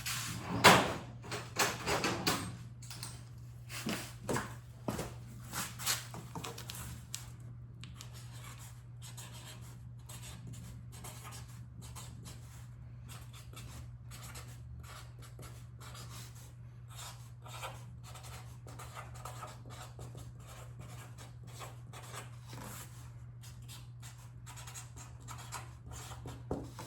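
A marker pen writing, heard as many short strokes, louder and busier over the first several seconds and lighter after that, over a steady low hum.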